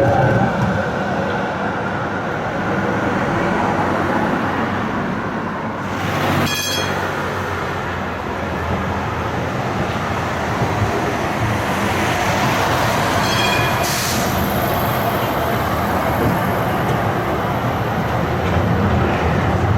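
Tram running on street rails, with a steady rolling rumble throughout. Two brief high ringing sounds come through, one about six seconds in and another about thirteen seconds in.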